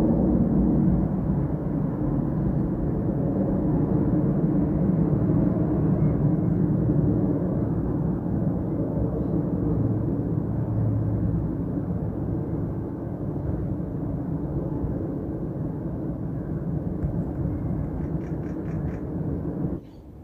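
Engine noise of a passing aircraft, slowly fading as it moves away, then cut off abruptly near the end.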